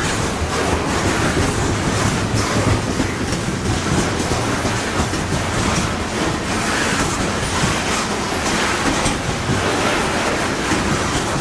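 Canadian Pacific coal train's cars rolling steadily past, steel wheels clattering over the rail joints.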